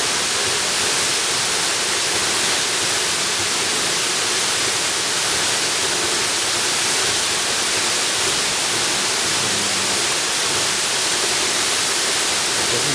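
Jungle waterfall: a steady, unbroken rush of falling water, a dense even hiss.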